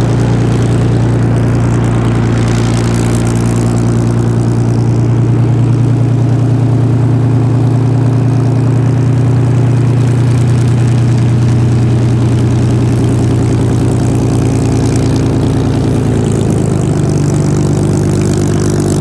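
Rolls-Royce Merlin V12 of a two-seat Spitfire Tr.9 running at low, steady revs with a deep, even drone. Near the end the pitch steps up a little as the revs rise.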